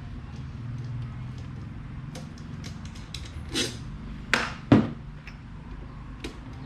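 Scattered small clicks and three louder knocks a little past halfway, the sounds of electric fan parts and tools being handled and knocked during repair, over a low steady hum.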